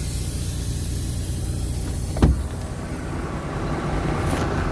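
Truck's diesel engine idling with a steady low rumble, a loud hiss fading away over the first couple of seconds and a single knock about two seconds in.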